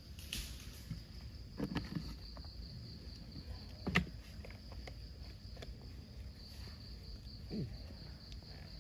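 Insects chirring in a steady, high, finely pulsed drone, with a few faint knocks and rustles, the sharpest about four seconds in.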